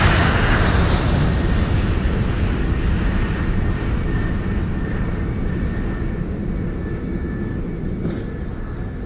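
Boeing 767 rumbling down the runway in a rejected takeoff, heard from inside the cabin, with its spoilers raised: loud engine and rolling noise that slowly dies away as the aircraft slows. A faint steady whine joins about four seconds in.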